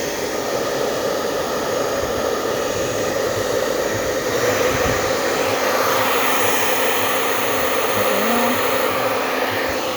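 Hair dryer running steadily, a continuous whoosh of blown air with a hum; it gets slightly louder about four and a half seconds in.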